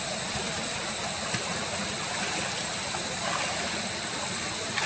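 Steady water noise, like a stream running, with a few faint clicks and a thin high steady tone above it.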